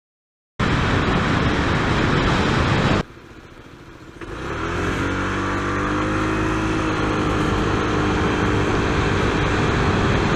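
Honda PCX 125 scooter's single-cylinder engine accelerating from low speed. Its pitch climbs and then holds nearly steady as the automatic belt transmission keeps the revs up. Before that, after a sudden start, there are a few seconds of loud rushing noise with no clear engine note.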